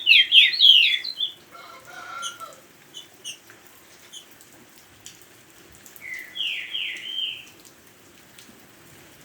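A forest bird singing: a quick run of downward-slurred whistled notes at the start, softer scattered chirps, then a second phrase about six seconds in. Faint steady rain hiss runs underneath.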